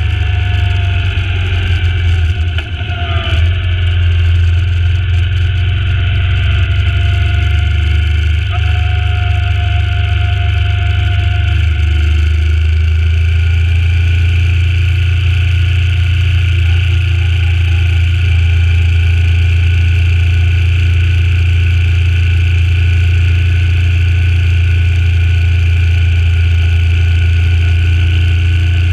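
Suzuki Intruder C800's V-twin engine running as the motorcycle is ridden, a bike still being run in. Its note falls and the level dips briefly about three seconds in, then it settles into a steady cruise.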